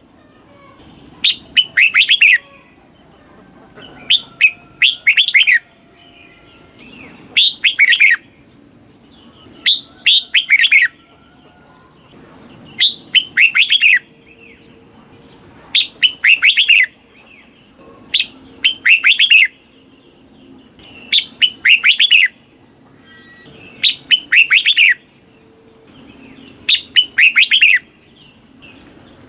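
Red-whiskered bulbul singing the same short, loud phrase over and over, about one every three seconds. Each phrase is a quick run of falling whistled notes.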